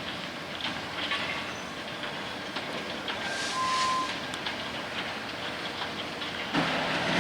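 Freight train rolling past, its wheels clicking over the rail joints under a steady rumble, with a short high squeal about three and a half seconds in.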